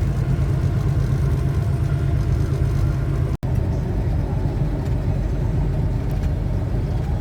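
Steady low rumble of a car, its engine and road noise continuous, broken by a brief dropout about three and a half seconds in.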